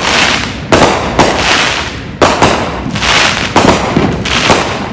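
Consumer fireworks going off in a rapid string of loud bangs, about two a second, each trailing off in a hiss.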